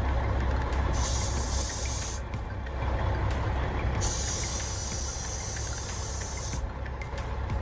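A 1999 Peterbilt 379's diesel engine idling with a low rumble. Two bursts of compressed air hiss over it: a short one about a second in, and a longer one of about two and a half seconds starting about four seconds in.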